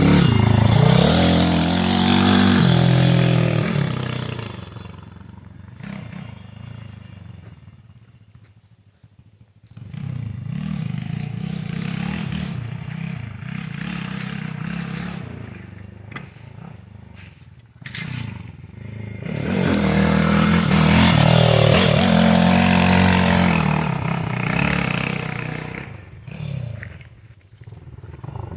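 Pit bike engine revving hard and shifting as it laps a dirt track. It is loud as the bike passes close at the start and again from about twenty seconds in, and fades into the distance in between.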